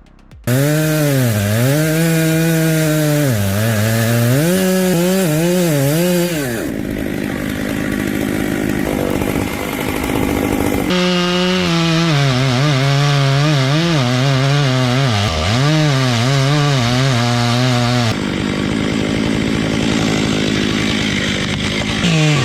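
Two-stroke chainsaw running at high revs, its pitch dipping and recovering again and again as it bogs into the wood. The sound changes abruptly several times, between clear engine-note stretches and noisier sawing stretches.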